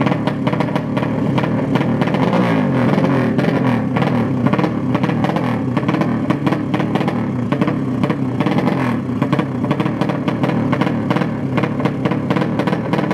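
Several motorcycle engines revving at once, their pitches rising and falling over one another in a dense, continuous racket.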